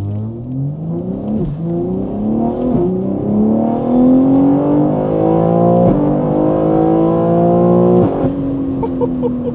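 BMW S58 twin-turbo inline-six, with catless downpipes and an equal-length midpipe, under hard acceleration. The exhaust note climbs in pitch and drops sharply at four quick upshifts. After the last shift near the end it settles into a steady note.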